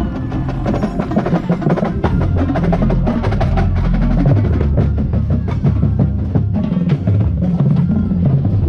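Drum corps brass and percussion playing together at full volume: low tuba notes heard close and loud, with rapid snare and percussion strokes running through it.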